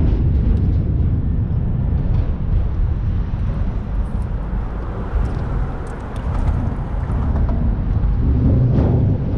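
Boat under way: a steady outboard motor drone under heavy, uneven wind and water rumble on the microphone.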